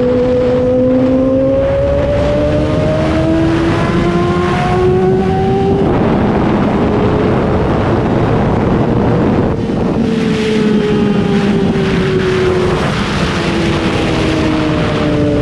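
2003 Yamaha R6's inline-four engine, fitted with an SC-Project exhaust, running under way. The revs climb steadily, break off about six seconds in, then hold and fall slowly toward the end, with wind rush throughout.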